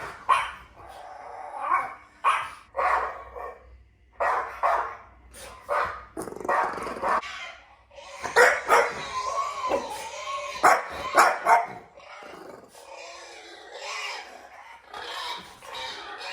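Dog barking and growling in a string of short calls, coming thicker and louder about halfway through.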